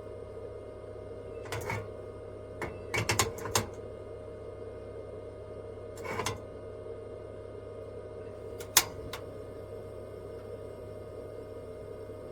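A handful of short clicks and knocks over a steady low hum. Most are single, with a quick cluster of four or five about three seconds in and the sharpest click near nine seconds.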